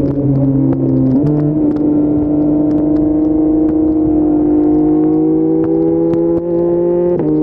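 Yamaha MT-09's 890 cc inline-three engine through an Akrapovic full-system exhaust, pulling in gear with its note climbing steadily, then dropping sharply near the end as it shifts up a gear.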